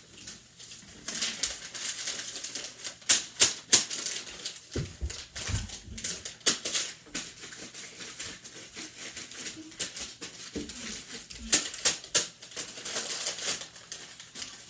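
Paper rustling and crackling as sheets are handled and creased into paper airplanes: a string of irregular crisp crackles, the sharpest about three seconds in and again near the end.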